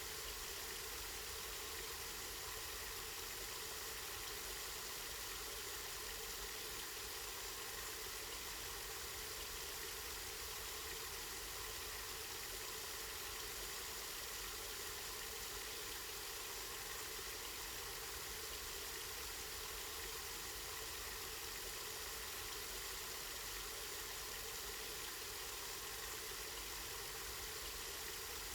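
Spring water flowing steadily: an even, unbroken hiss.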